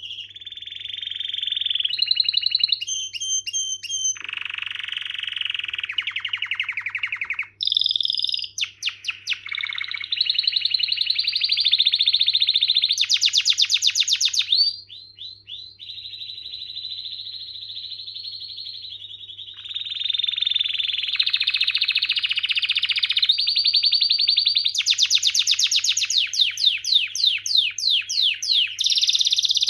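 Domestic canary singing a long, continuous song of rapid trills and rolls at changing pitches, with a softer stretch about halfway through.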